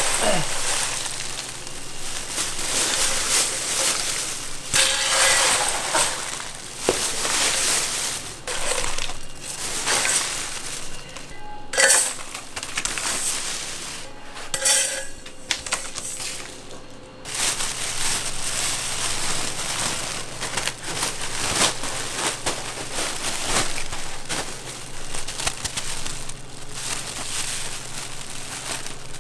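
Puffed rice snacks being handled, with a steady rustling and clattering that surges several times and includes a few sharp clicks, over a steady low machine hum.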